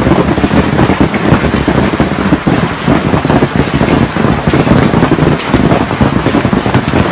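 Hailstones pelting down, a loud, dense and steady clatter of countless small impacts.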